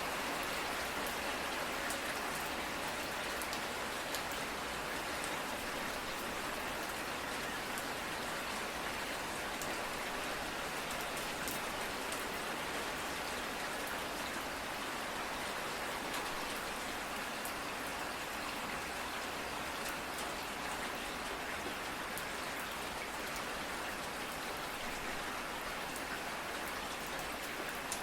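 Steady rainfall, with scattered drops ticking on a surface over an even hiss.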